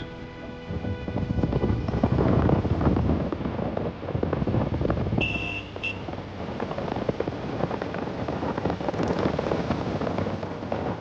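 Motorcycle riding over a rough track, with wind buffeting the microphone and crackling road noise that gets louder about two seconds in. Two short high beeps come about five seconds in.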